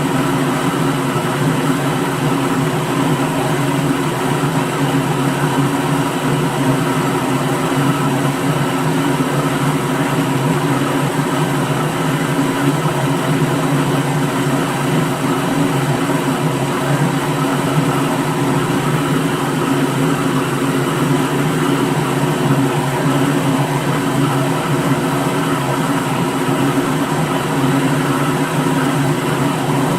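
Electric blender motor running steadily at constant speed, a continuous whirring hum with no change in pitch.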